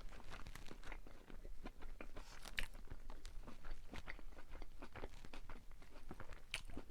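Close-up chewing and crunching of a crispy fried-chicken sandwich: many small irregular crunches and wet mouth clicks.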